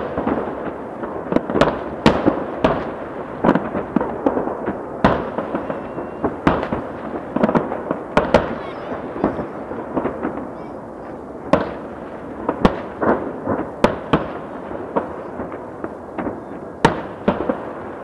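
Aerial fireworks bursting: many sharp bangs at irregular intervals, roughly one or two a second, over a continuous background noise.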